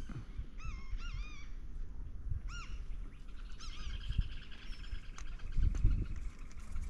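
A bird calling: a few separate rising-and-falling calls, then a quick run of repeated calls from about three and a half seconds to six seconds in.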